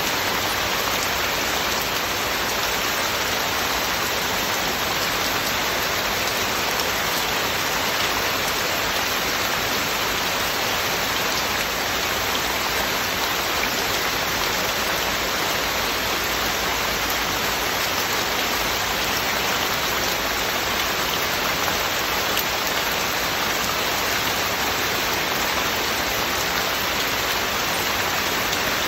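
Heavy rain falling steadily on hard surfaces, an even hiss with faint drop ticks, without thunder.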